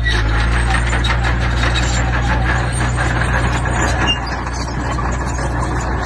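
Diesel engine of earthmoving machinery running steadily under load, with stones clattering and scraping as they are pushed or loaded. The clatter eases off suddenly about four seconds in while the engine keeps running.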